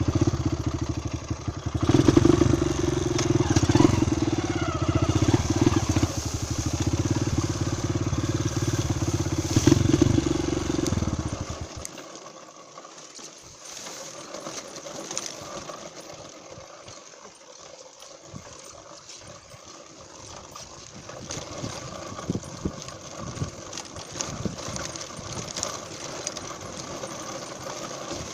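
Trail motorcycle engine running steadily, then cutting off abruptly about twelve seconds in; after that only faint clicks and light background noise.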